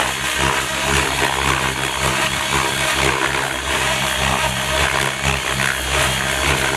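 Gaui X7 electric RC helicopter flying aerobatics at high head speed: a steady, loud motor and rotor whine with many overtones, wavering slightly as the rotor is loaded.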